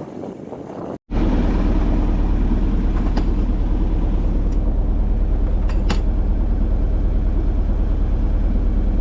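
About a second in, wind and water noise cuts off and a sailboat's inboard engine takes over, running steadily with a low drone. A few faint ticks come through near the middle.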